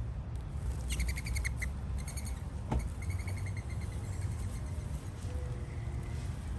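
A small bird chirping in quick runs of rapid repeated high notes, three short trills in the first half, the last slowing down, with a single sharp click in between, over a steady low rumble.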